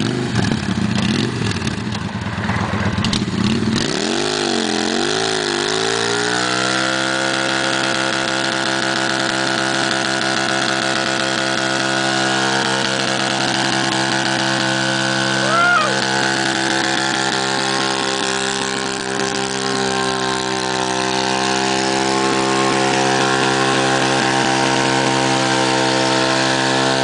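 Chopper motorcycle engine rising unevenly in revs over the first few seconds, then held at steady high revs for a burnout, spinning the rear tyre.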